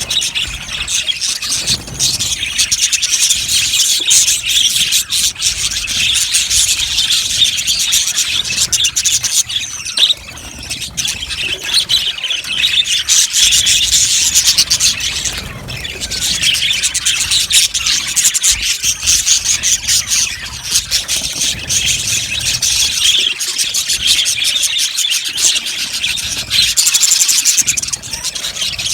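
A colony of budgerigars chattering and warbling together, a dense, continuous high-pitched twittering with rapid scratchy chirps, easing briefly a couple of times.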